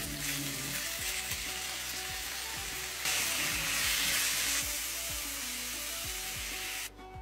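Chicken pieces and sliced onions sizzling in a nonstick frying pan as a silicone spatula stirs them. The sizzle grows louder for about a second and a half some three seconds in, then cuts off suddenly just before the end.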